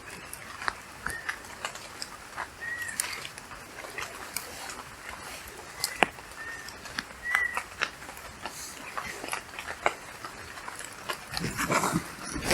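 Wild birds calling: short, slurred whistled notes repeated every second or two, among scattered sharp ticks. A louder rustling noise comes in near the end.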